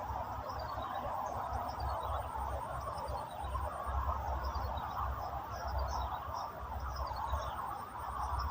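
Outdoor ambience: a steady hiss with gusty wind rumbling on the microphone. Small high chirps recur throughout, and a thin high pulsing buzz comes in for a few seconds twice.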